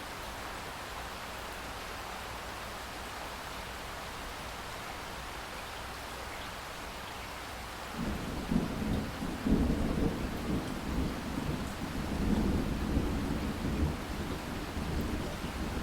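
Steady rain, with a low rumble of thunder coming in about halfway through and rolling on in several louder swells.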